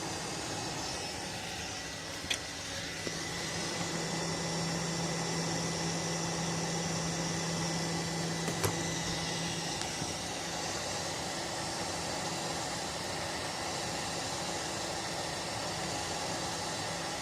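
Steady whir of a small electric fan or blower. A low hum joins it for several seconds, and two faint clicks come a few seconds apart.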